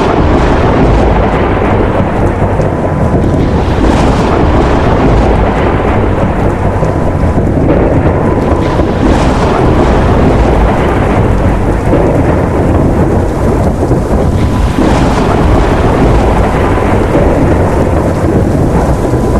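Thunderstorm sound effect: loud, steady rain with rumbles of thunder swelling several times.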